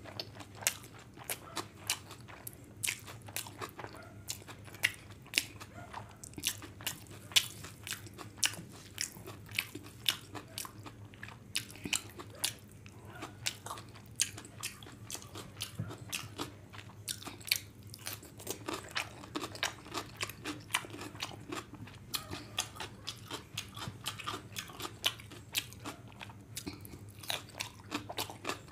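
Close-miked chewing of mouthfuls of vegetable fried rice eaten by hand: a fast, irregular run of wet mouth clicks and smacks, several a second.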